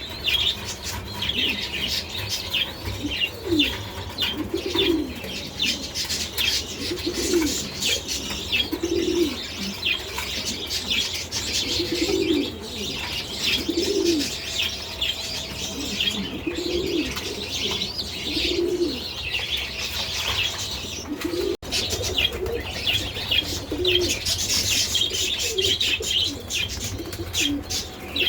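Domestic pigeons cooing over and over, a short rising-and-falling coo about every second and a half, with many high chirps from smaller birds throughout and a steady low hum underneath.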